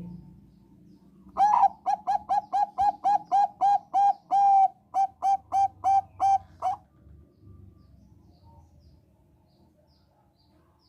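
Zebra dove of the Thai 'perkutut bangkok' strain singing: a quick run of about eighteen short, clear cooing notes at roughly three a second, lasting about five seconds before it stops.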